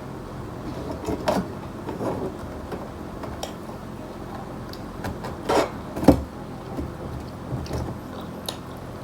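Eating and handling food and dishes: a few short clicks and knocks, the loudest about five and six seconds in, over a steady low hum.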